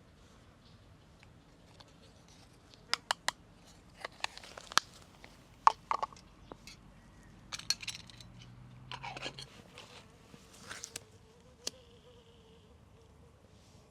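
Irregular sharp clicks and light taps, like small objects being handled and set down, loudest in the middle, with a brief low hum about two-thirds of the way through.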